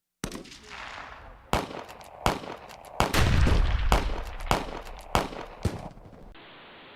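A series of gunshots: about eight sharp bangs with echoing tails, irregularly spaced over about six seconds, densest and loudest between about three and four and a half seconds in.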